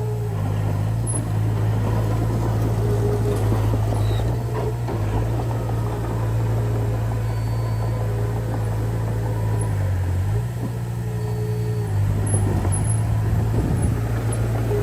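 Diesel engine of a Komatsu D20P small bulldozer running steadily, its note shifting briefly about ten to twelve seconds in.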